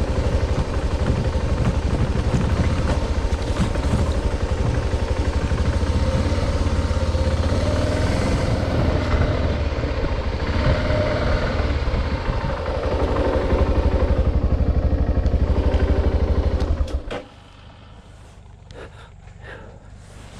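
Adventure motorcycle's engine running steadily, then cutting off abruptly near the end, leaving only faint background noise with a few light clicks.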